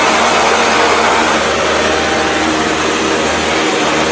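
ASDA Goblin GVU401R18 budget upright vacuum cleaner running steadily: its motor drones and air rushes through it.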